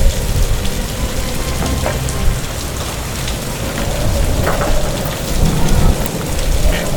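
Heavy rain in a storm, with a deep rolling rumble like thunder that swells about four seconds in and again near the end.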